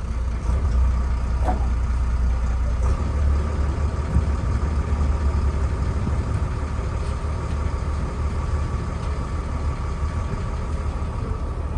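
An engine running steadily: a deep low hum with a faint steady whine above it, with no change in speed.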